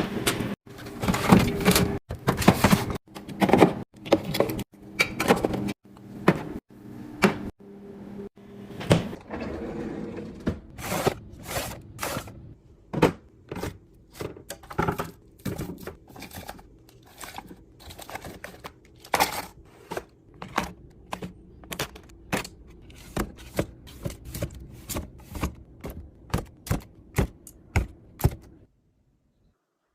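Irregular taps, clicks and thunks of containers and packages being set down and slid onto fridge shelves, with an occasional scrape. The sound cuts off abruptly shortly before the end.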